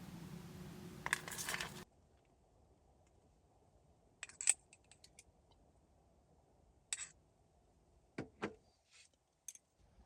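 A steady hiss cuts off abruptly about two seconds in, then camp cooking gear clinks and taps lightly a few times, in small scattered groups.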